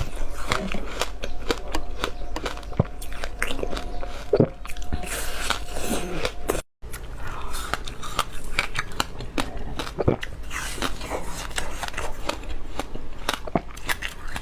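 Close-miked biting and chewing of frozen passion-fruit ice: dense, irregular crunches and crackles, breaking off for a moment about seven seconds in.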